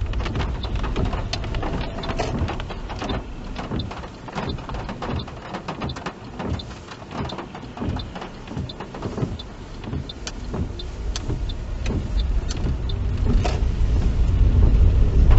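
Inside a car being driven in the rain: low engine and tyre rumble, with many irregular light ticks of rain on the car. The rumble grows louder over the last few seconds.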